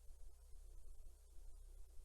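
Near silence on an air-traffic control radio feed between transmissions: a faint steady hiss over a low hum.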